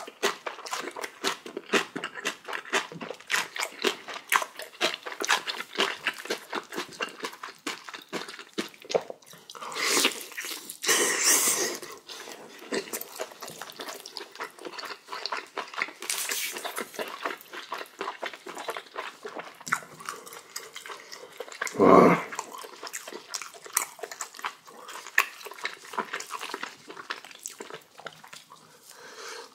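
Close-up chewing of crunchy kimchi: fast wet crunches and mouth clicks, with sharp breaths drawn in a few times. About two-thirds through comes one short, loud vocal grunt that falls in pitch.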